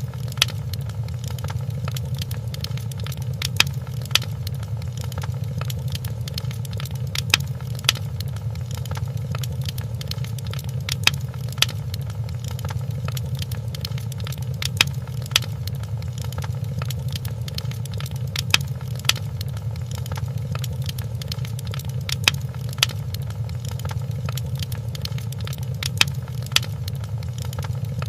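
Wood fire crackling in a fireplace: a steady low rumble under a stream of small snaps, with a pair of louder pops coming back about every four seconds.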